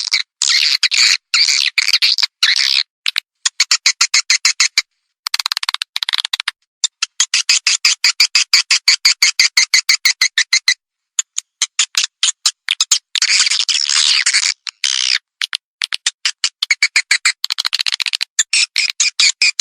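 Swiftlet lure call: dense, rapid chirping and clicking trills of swiftlets, coming in bursts of a few seconds with brief gaps between them.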